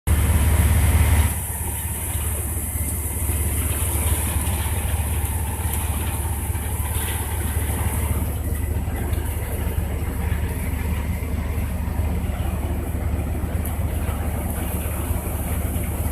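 Heavy rain hissing steadily, with strong wind buffeting the microphone in a low rumble. Loudest for the first second or so.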